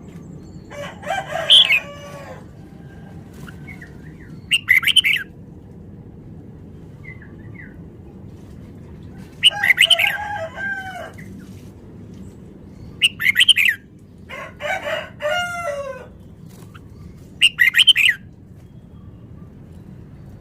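Red-whiskered bulbul singing in about six short, quick, loud phrases of whistled notes a few seconds apart. A steady low hum runs underneath.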